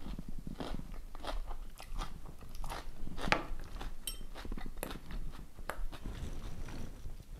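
Mouth sounds of someone eating fried noodles: irregular chewing and crunching, with a few sharp clicks of a spoon against a small ceramic bowl about four seconds in.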